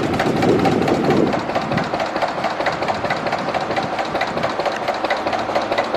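Natural gas engine running on the gas from a coal bed methane well, with a steady, even run of firing strokes. A rushing noise under it drops away about a second in.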